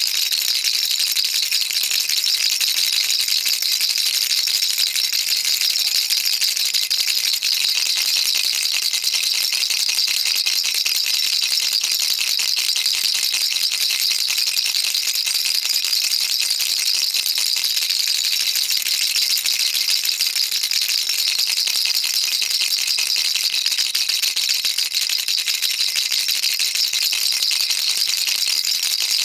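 Baby rattle shaken continuously, a dense, steady, high-pitched rattle of many small pellets clicking inside it, with no pauses.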